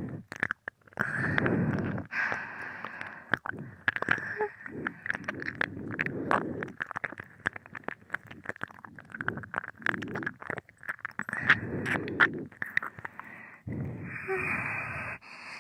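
ASMR ear-licking mouth sounds recorded close on a binaural microphone: wet licks, smacks and sharp tongue and lip clicks at an uneven pace, with a breath near the end.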